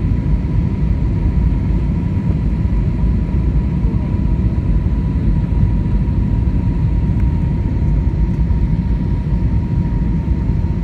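Airliner cabin noise on the approach to landing: a steady low rumble of engines and airflow, with a faint steady high whine.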